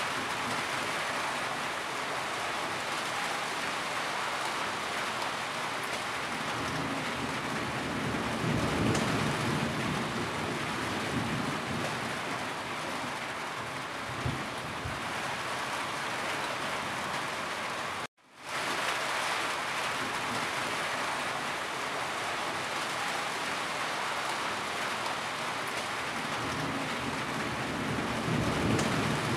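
Heavy rain falling steadily, with low rumbles of thunder about eight seconds in and again near the end. The sound drops out for an instant about two-thirds of the way through and fades straight back in.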